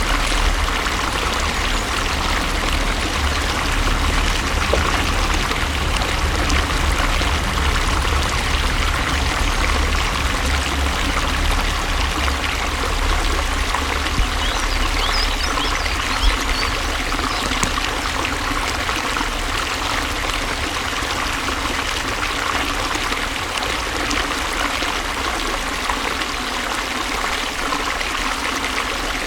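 Water flowing steadily in a stream, a continuous rushing and trickling with a low rumble underneath.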